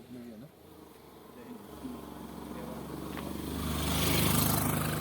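A motor vehicle approaching and driving past, its engine hum and road noise swelling to the loudest point about four seconds in, then fading.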